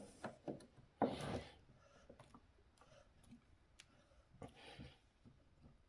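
Light clicks and taps of hand tools and small RC-car suspension parts being handled while the suspension arms are screwed back in. A louder rustling knock comes about a second in, and another about four and a half seconds in.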